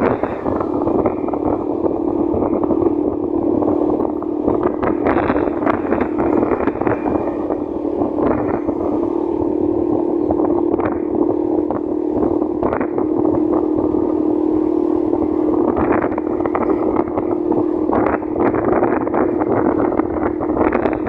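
Motorcycle engine running at a steady speed while riding, with wind buffeting the microphone and frequent short crackles.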